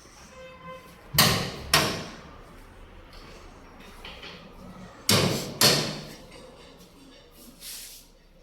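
Metal fireplace insert clanking: two pairs of heavy knocks on metal, the knocks in each pair about half a second apart, each with a short ring. A brief squeak comes just before the first pair.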